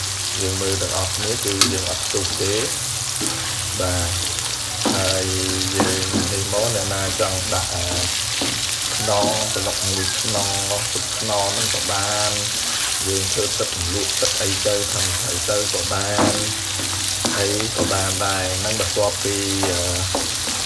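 Coconut worms (palm weevil larvae) sizzling steadily as they fry in oil in a wok with a spatula stirring them, one sharp tick of the spatula against the wok about a second and a half in. A pitched, melody-like sound runs underneath.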